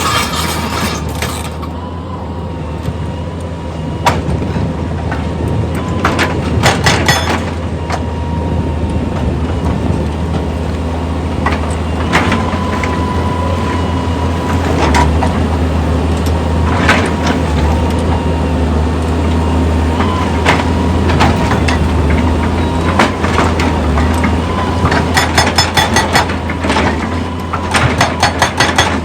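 Heavy machinery running with a steady low engine drone, broken by scattered sharp knocks and several bursts of rapid clatter, the loudest near the end.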